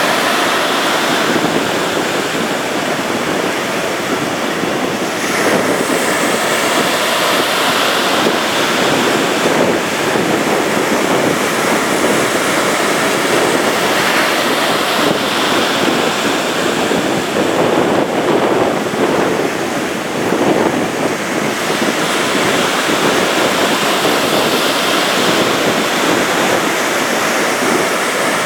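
Ocean surf breaking and washing up the beach in a steady rush with slow swells, with wind buffeting the microphone.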